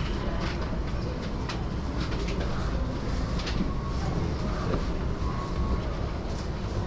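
JR Yamanote Line commuter train running, heard from inside the carriage: a steady rumble of wheels on rails with irregular sharp clicks.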